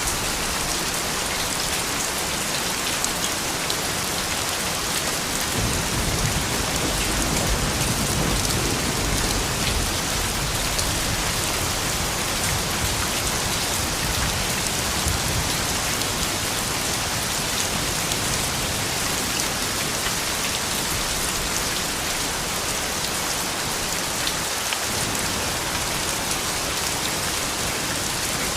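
Steady rain falling, an even hiss of many drops. A low rumble rises about six seconds in and dies away by about eleven seconds.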